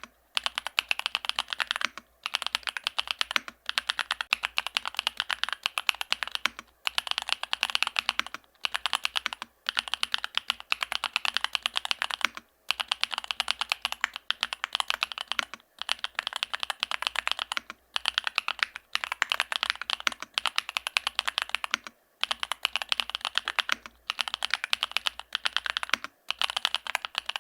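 Fast typing on a YUNZII AL65 mechanical keyboard with Gateron Zero linear switches and a polycarbonate plate: rapid runs of keystrokes broken by brief pauses every second or two.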